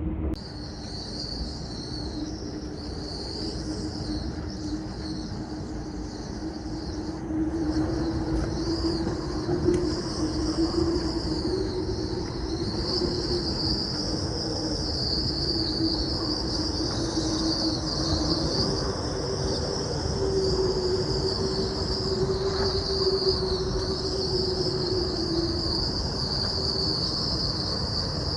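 Storm wind howling and whistling through a sailboat's mast and rigging: a low wavering hum and a high whistle that rise and fall in pitch with the gusts, over a steady rush of wind.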